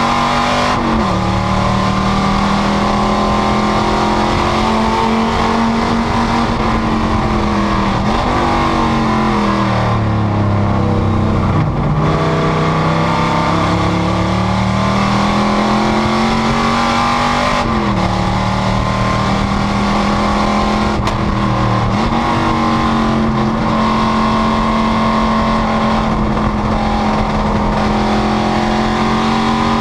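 Panoz GTS race car's engine running hard on track, its pitch stepping at gear changes several times; about ten seconds in the revs fall away, then build back up steadily.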